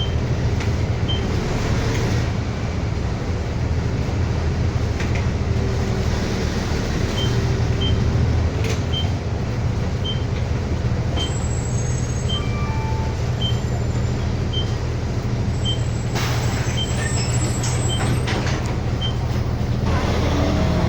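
A city bus driving between stops, heard from inside the cabin: the engine's steady low drone under road noise. A faint regular tick comes about every three-quarters of a second through the middle.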